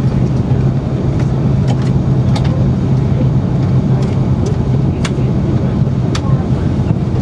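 Steady low hum inside an Airbus A330-300's cabin before pushback, with one strong steady low tone running through it. A few sharp clicks sound through it.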